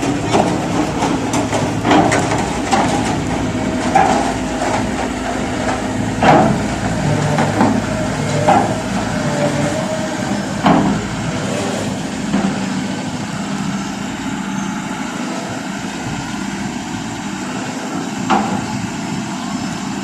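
Heavy truck or equipment engine running steadily, with sharp metallic knocks and clanks: several in the first eleven seconds and one more near the end.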